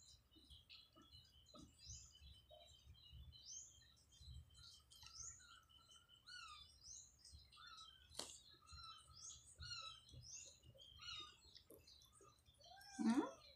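Small birds chirping faintly in the background: many short, quick chirps and repeated mid-pitched notes. Near the end a brief, louder voice-like call rises in pitch.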